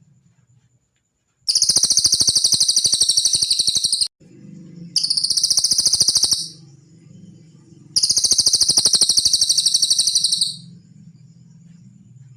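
Cililin bird singing three long, rapid, high-pitched trills with short pauses between, as a recorded tutor song for training cage birds. A faint low hum sits under the pauses.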